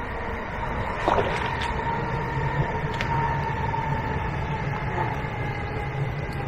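A distant engine droning steadily, with a low rumble and a single hum whose pitch sinks slowly, as of a motor passing by. A few faint knocks about a second in and around three seconds in.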